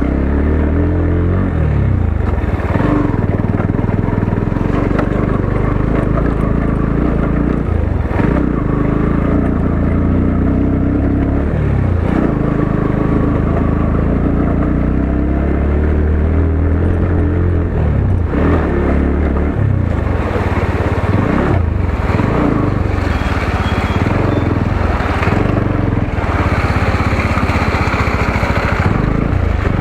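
Motorcycle engine running under load, its pitch dropping and climbing again several times as the rider eases off, shifts and accelerates.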